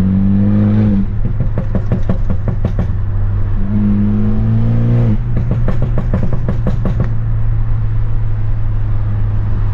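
Straight-piped, Stage 2+ tuned BMW F30 328i's turbo four-cylinder engine pulling twice, the pitch rising each time, and each pull followed by a run of crackling exhaust pops on lift-off from the tuned pop-and-bang map. It then settles into a steady drone.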